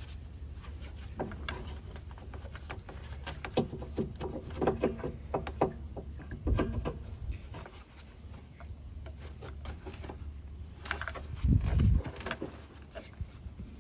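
Hand-handling noises of an ignition coil being fitted into the engine: scattered light clicks and plastic rubbing, with a heavier bump near the end.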